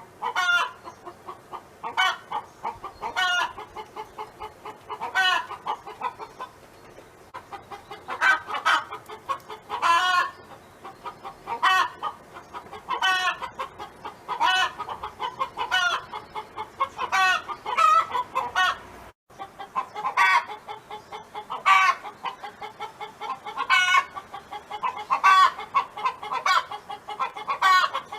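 A domestic hen clucking steadily, breaking into loud, rising calls about every one to two seconds. The sound cuts out for an instant about two-thirds of the way through.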